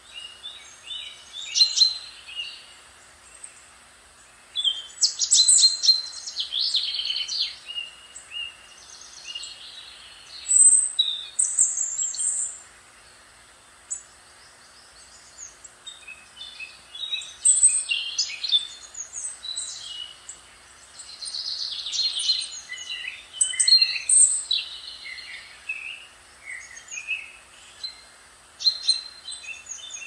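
Songbirds singing: several birds' high, quick warbled phrases overlap in bursts, with quieter gaps of a few seconds between them, over a faint steady hiss.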